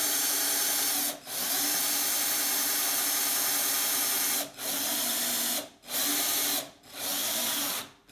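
Electric drill boring shallow holes into a bicycle seat post. The drill runs in a few-second stretch, then in three shorter bursts, stopping and starting between them.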